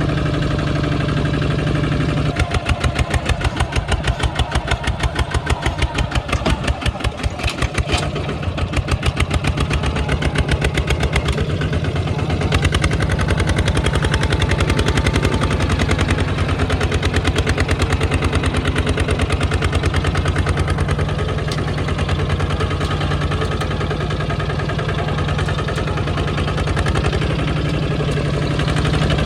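Kubota tractor's diesel engine running, with a louder, rapid pulsing beat from a couple of seconds in until about twelve seconds in, then settling to a steady, even run.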